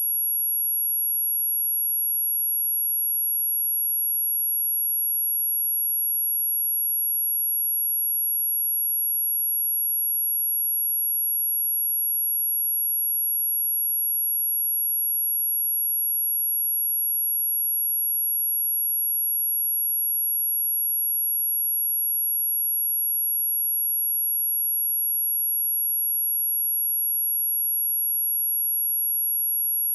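A steady, unbroken high-pitched test tone: a pure sine wave at 11312 Hz, played as a speaker test.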